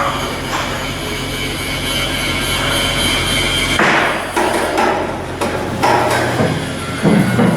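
Hammer blows on steel at irregular intervals, some ringing after the strike, over a steady low machinery hum.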